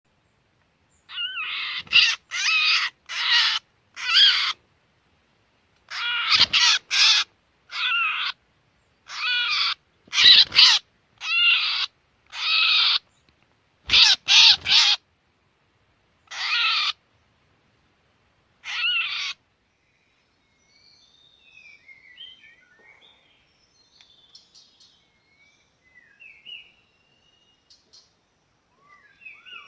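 White-rumped shama (murai batu) giving a string of about a dozen loud, harsh calls, each under a second, with short gaps between them. After that come faint, short chirping notes.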